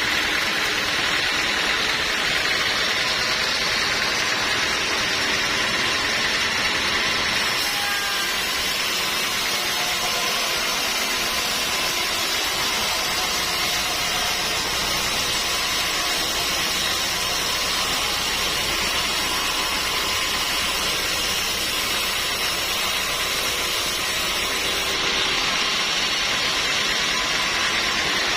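Sawmill saw running steadily with a continuous mechanical noise while milling teak wood. The sound grows brighter about seven seconds in and eases back near the end.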